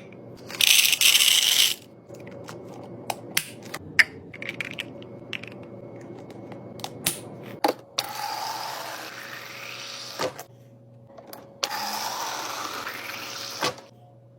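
Fridge-restocking handling sounds: a loud hiss or rustle near the start, scattered clicks and knocks of items being set down, and twice a few seconds of liquid pouring into a container, its pitch rising as it fills.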